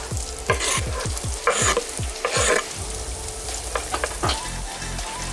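Chopped onions frying and sizzling in hot oil in a pan while being stirred, with three loud scraping strokes of the spoon in the first half and lighter clicks after.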